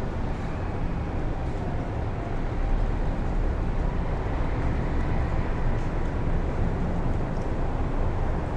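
Strong wind rushing steadily outdoors, with a deep, buffeting low rumble.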